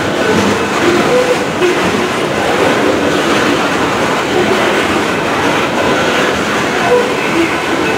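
Coal train hopper cars rolling past close by: a steady, loud noise of steel wheels running on the rails.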